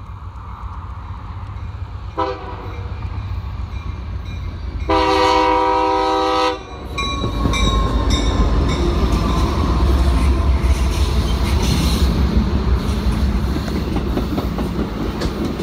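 Norfolk Southern locomotive air horn: a short toot, then a long blast of about a second and a half. After it, the train runs past with a loud low rumble and the clickety-clack of its wheels.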